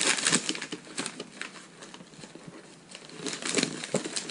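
Gift wrapping paper crinkling and tearing as a present is ripped open by hand, in bursts with a quieter stretch in the middle.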